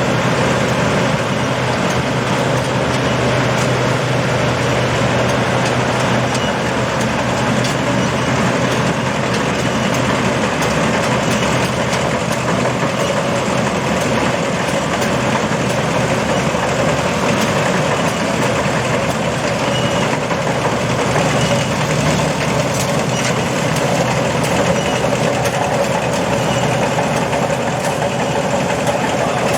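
Combine harvester running steadily, a constant engine hum with machinery noise over it.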